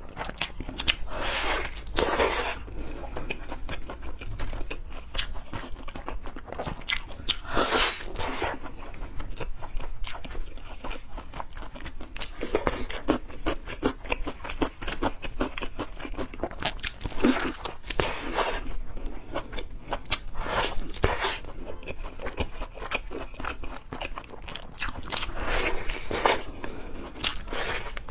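Close-miked eating of seafood: steady chewing and biting with crunching and wet clicks, broken every few seconds by short louder noisy bursts.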